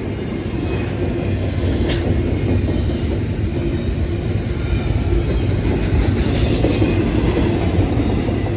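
Train rolling past: a steady rumble of wheels on rail with a low hum, growing a little louder midway.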